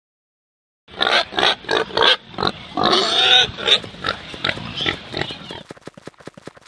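Domestic pig grunting and oinking several times, with a longer drawn-out call about three seconds in. Near the end the calls give way to a fast, even clicking, about ten clicks a second.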